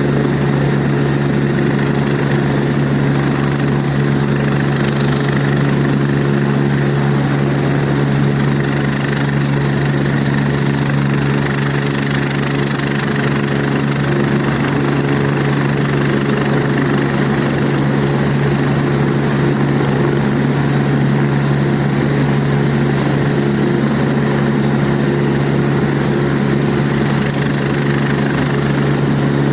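Air ambulance helicopter running steadily on the ground, its engine and rotors giving a constant loud hum with an unchanging pitch.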